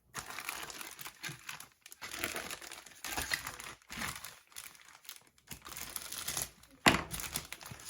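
Plastic bags of model kit parts crinkling and rustling as they are handled, in uneven bursts, with one sharp click of plastic near the end.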